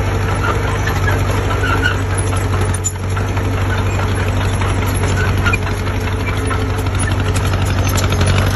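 Heavy construction machine's diesel engine running steadily at a low, even speed, with a rapid pulsing beat.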